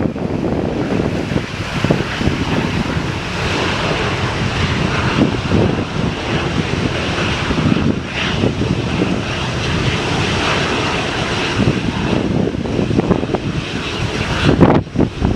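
Airplane engines running, heard through heavy wind buffeting on the microphone.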